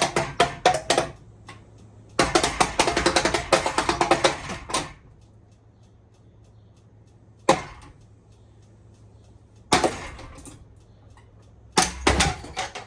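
A running Honeywell ceiling fan being smashed: bursts of rapid clattering hits with single knocks between, the loudest run lasting about two and a half seconds.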